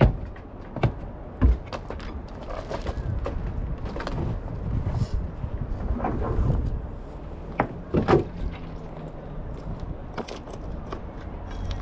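Sharp wooden knocks of a boatman's pole against a river sightseeing boat: three in the first second and a half and a pair about eight seconds in, over a low steady rumble of wind on the microphone.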